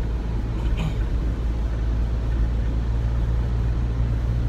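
Steady low rumble of a running vehicle, with a brief faint sound about a second in.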